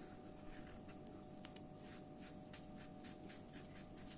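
Faint scratching of a colouring tool on paper: back-and-forth colouring strokes, sparse at first, then about four a second in the second half.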